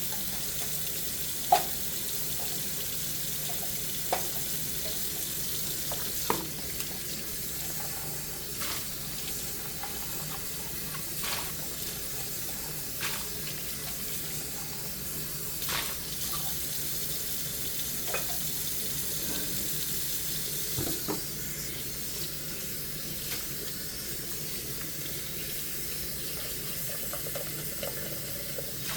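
Tap water running steadily into a kitchen sink during hand dishwashing, with scattered short clinks of dishes and utensils knocking together, the sharpest about a second and a half in.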